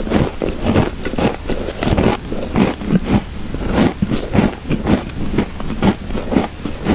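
Close-miked crunching of shaved ice being chewed: a quick, irregular run of crisp crunches, several a second.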